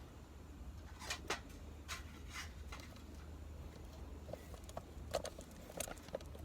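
Campfire wood crackling: a scattering of sharp pops and snaps at irregular moments over a steady low hum.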